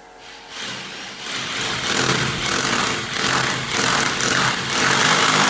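A machine motor running, building up over the first couple of seconds and then staying loud.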